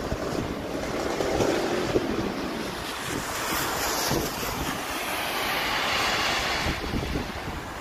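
Rain falling in a steady hiss, with wind buffeting the microphone. The hiss grows brighter for a few seconds midway.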